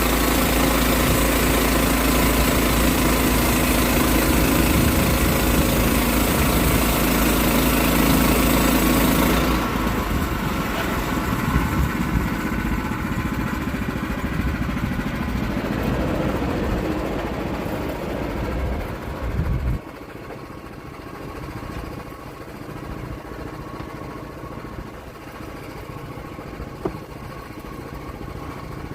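Portable sawmill's engine running loud with the blade cutting oak; about ten seconds in the cutting noise stops and the engine runs on quieter, dropping lower again about twenty seconds in.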